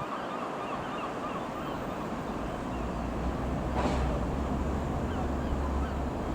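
Boeing 737-800 jet engines, a broad rushing roar with a low rumble that builds about a third of the way in, as the airliner passes. Birds chirp faintly throughout.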